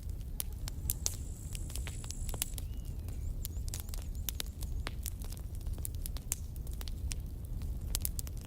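Campfire crackling: burning wood gives off sharp, irregular pops and snaps, several a second, over a steady low rumble.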